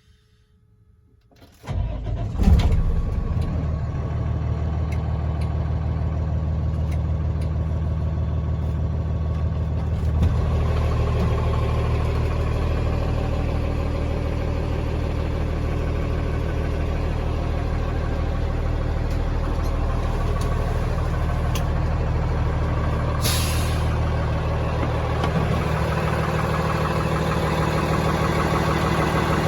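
A 2010 Freightliner M2-106 dump truck's diesel engine cranks and starts about two seconds in, then idles steadily. About two-thirds of the way through there is a short, sharp hiss of released air.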